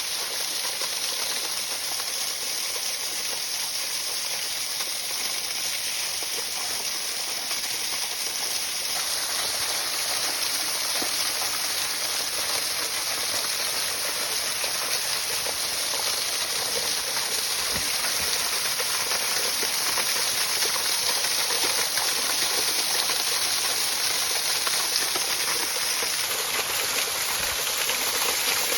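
Waterfall: a steady, continuous rush of falling water. Its character shifts slightly about nine seconds in and again near the end.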